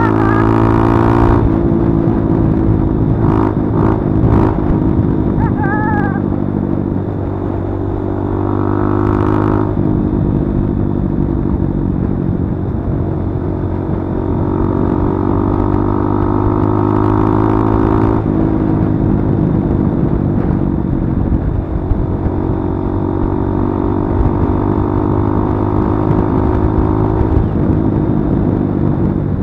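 Kawasaki D-Tracker 150's single-cylinder four-stroke engine running while riding, its pitch mostly steady with a few small changes in speed.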